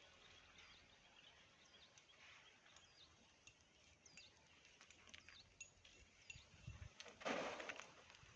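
Faint outdoor ambience with many small, high bird chirps scattered throughout. About seven seconds in, a brief burst of noise is the loudest sound.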